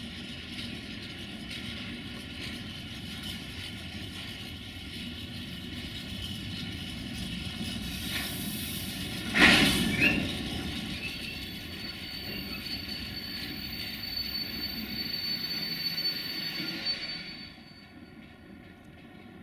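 A train running through the station close by, a steady rumble of wheels and engine on the rails. About halfway through there is one short, loud sound. Later a thin, high, steady whine joins in, and the rumble drops away suddenly near the end.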